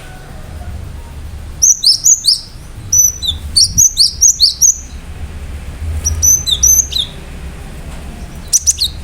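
Cinereous tit (gelatik batu) singing: four loud bursts of rapid, sharp, high whistled notes, with short pauses between them. A low steady hum runs underneath.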